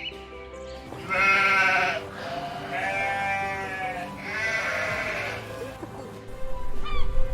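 A sheep bleating three times, each bleat quavering, the first the loudest and the second the longest, over background music.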